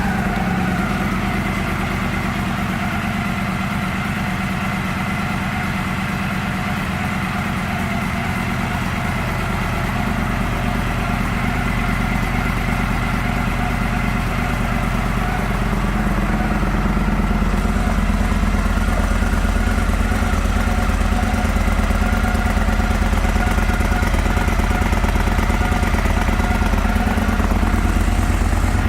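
2015 Victory Gunner's air-cooled Freedom 106 V-twin idling steadily, just after being started. About seventeen seconds in, its low rumble gets fuller and a little louder.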